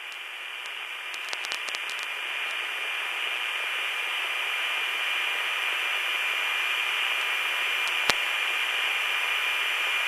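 Steady hiss and static from an aircraft two-way radio channel between transmissions, gradually growing louder, with a few faint clicks and a thin steady tone under it.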